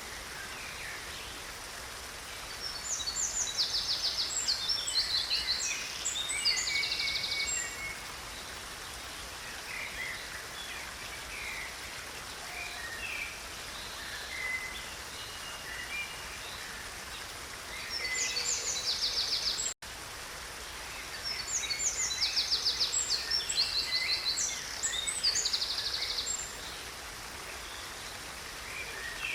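Stream water running steadily under songbird song: two long phrases of fast high trills, about 3 seconds in and again about 21 seconds in, with scattered short chirps between. A third phrase breaks off abruptly just before a brief dropout about 20 seconds in.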